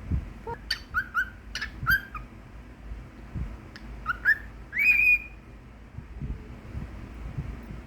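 Cockatiel whistling its song: a quick run of short whistled notes in the first two seconds, then a few more about four seconds in that end in one longer, higher whistle.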